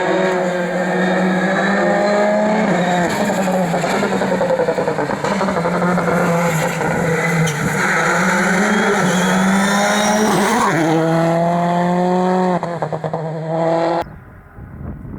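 Rally car engine revving hard as the car drives the stage, its pitch climbing and dropping sharply at gear changes, about three seconds in and again about ten seconds in. The sound cuts off abruptly about a second before the end.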